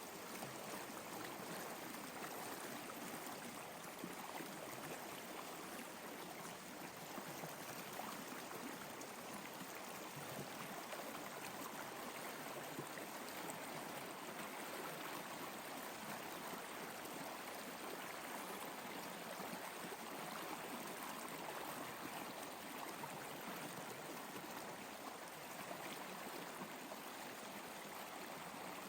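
Steady, unbroken sound of flowing water, like a running stream.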